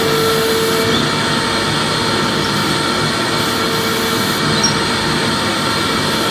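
Vacuum cleaner running steadily, a constant motor-and-airflow rush used as white noise. A steady hum under the rush drops out about a second in.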